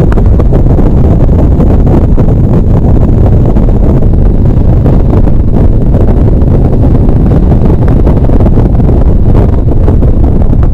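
Harley-Davidson V-twin motorcycle on the move: heavy wind buffeting on the microphone over a steady low rumble.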